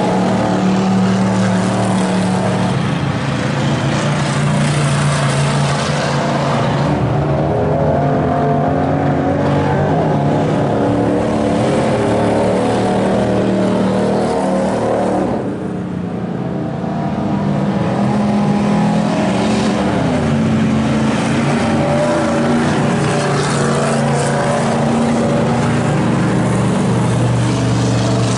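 Race car's engine running hard around a dirt track, its pitch rising and falling through the laps, with a brief lift off the throttle about halfway through.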